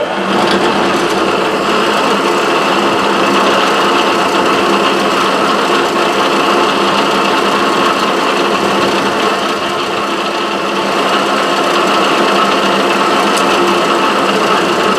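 Milling machine spindle running with a drill bit in its chuck, drilling a screw hole into a Delrin block: a loud, steady motor hum with a cutting hiss.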